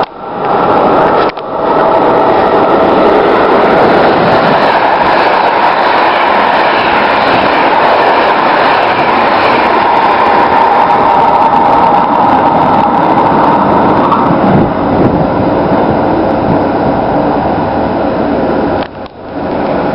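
Electric passenger train passing at speed and pulling away: a loud, steady rush of wheels on rails and air, with a steady high tone that stops about two-thirds of the way through.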